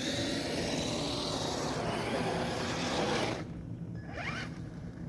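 Steady vehicle running noise with a faint high whine, which cuts off abruptly about three and a half seconds in and leaves a quiet background.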